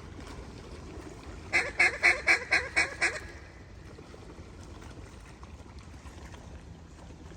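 A quick series of about seven loud, nasal duck quacks in the style of a mallard hen, about four a second, over a steady low background rumble.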